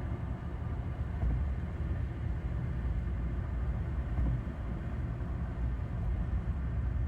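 Steady low engine and road rumble of a car driving at freeway speed, heard from inside the cabin.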